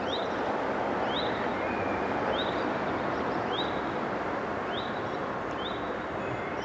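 A bird repeats a short high chirp about once a second over a steady rushing background noise.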